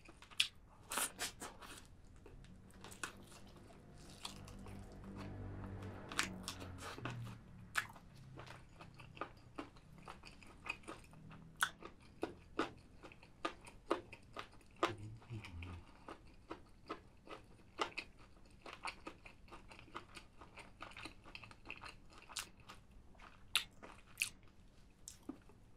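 A person eating spicy chicken feet close to the microphone: irregular crunching, biting and wet chewing clicks.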